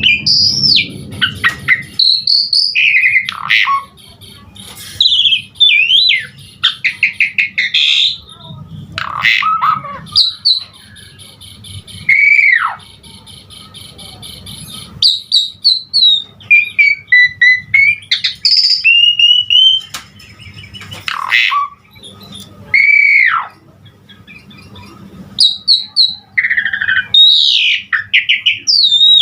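Asian pied starling (jalak suren) singing a loud, varied song, full of mimicked phrases. Clear whistles, sharply falling slurs and fast chattering trills come in phrases, with brief pauses between them.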